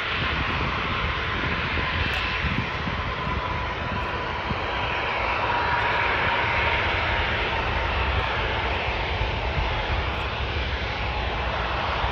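Jet engines of a Jetstar Airbus A320 landing, a loud steady roar with a faint whine that swells and fades a little about a third of the way in.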